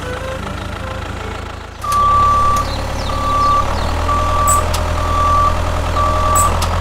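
Vehicle reversing alarm beeping about once a second over a low engine rumble, both starting about two seconds in.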